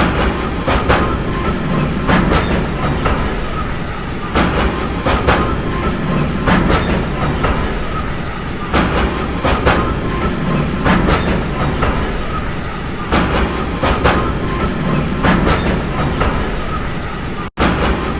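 Railway train rolling along the track: a steady rumble with paired clicks of the wheels crossing rail joints, recurring about every second and a half. The sound cuts out for an instant near the end.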